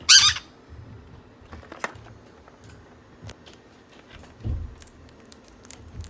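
A parrot gives one short, loud screech at the start, followed by scattered light clicks and rattles and a dull thump about four and a half seconds in.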